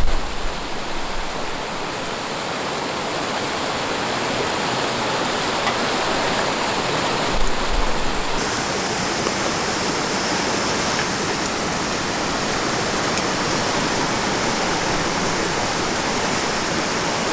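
Steady rushing of river water, an even hiss with little low rumble; a brighter high hiss joins about halfway through.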